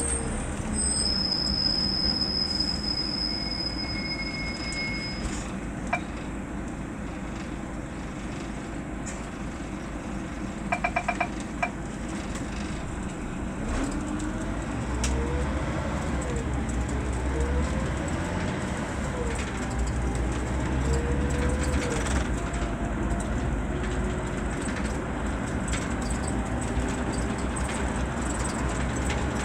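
Scania K 320 bus's diesel engine and drivetrain running on the move, a steady low rumble with road noise, the pitch rising and falling several times in the middle as it pulls and the Opticruise gearbox shifts. A short run of quick clicks is heard about a third of the way in.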